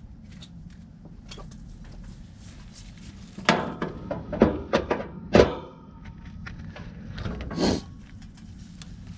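Wiring and plastic zip ties handled inside a heat pump cabinet: a burst of short clattering knocks and scrapes starting about three and a half seconds in, and one more near the end, over a steady low hum.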